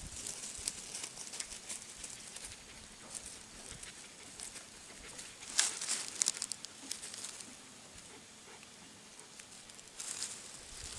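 Lace monitor's claws scratching and rustling on bark in short bouts of dry clicks, loudest about halfway through and again near the end.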